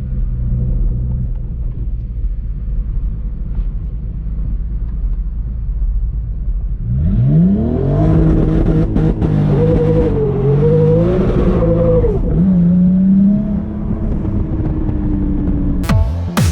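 Nissan 300ZX twin-turbo V6 idling with a steady low rumble, then revved about seven seconds in. It is held at high revs with the throttle blipped up and down for several seconds, then falls back to a lower run.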